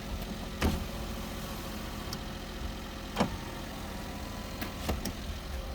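Daihatsu Hijet Jumbo mini truck's small three-cylinder engine idling steadily, with three light clicks: one near the start, one about halfway through and one near the end.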